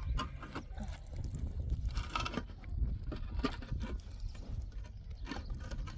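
Irregular soft knocks and scuffs over a steady low rumble.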